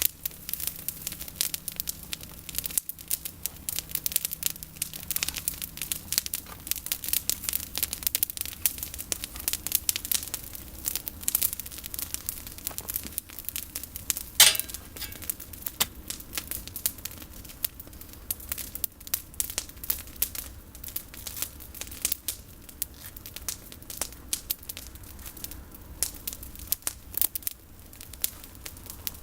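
Campfire of pruned olive branches crackling, with fast, irregular snaps and one louder pop about halfway through.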